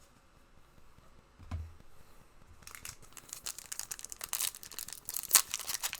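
A plastic trading-card pack wrapper being torn open and crinkled, starting nearly three seconds in after a soft thump.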